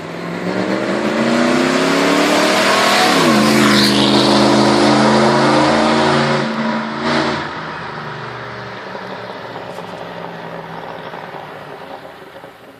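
Jeep Grand Cherokee's 5.2-litre V8 accelerating, its pitch rising for about three seconds, then dropping suddenly as it shifts up. It holds a steady pitch, falls off about seven seconds in, and fades away toward the end.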